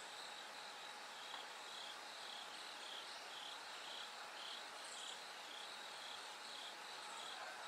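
Bell crickets and other autumn insects chirping: a steady, faint, high ringing, joined from a couple of seconds in by a pulsed chirp repeating about twice a second.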